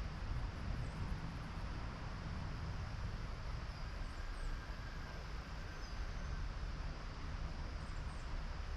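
Outdoor ambience: a steady low rumble, typical of wind on the microphone or distant traffic, with a few faint, short bird chirps about halfway through and again near the end.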